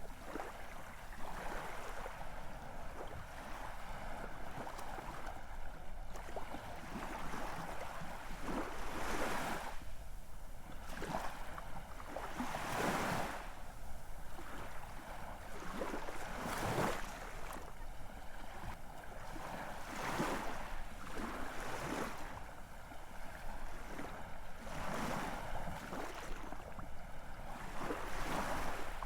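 Ocean surf: a continuous wash of waves with a louder surge every few seconds as waves break and run up.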